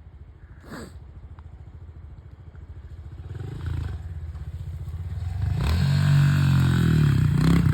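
Small 110cc pit bike engine running, getting louder about halfway through, then revving hard with the pitch rising and falling.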